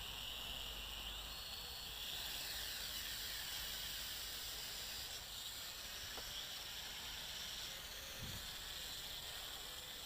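JXD 509 toy quadcopter's motors and propellers whining in a low hover: a high, hissy whine whose pitch dips and rises slightly as it holds position.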